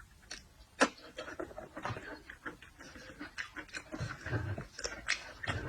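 Close-miked eating sounds of seafood being chewed: a quick irregular series of wet clicks and smacks, with one sharp crack just under a second in.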